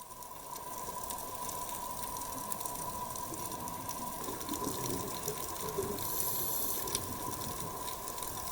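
Steady rushing water noise, an even hiss with a faint constant tone running through it.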